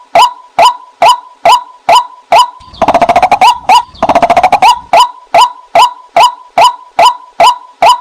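Female white-breasted waterhen call, a lure recording: a loud clipped note repeated about twice a second, interrupted briefly near the middle by two fast chattering runs at a lower pitch, after which the steady repeated notes resume.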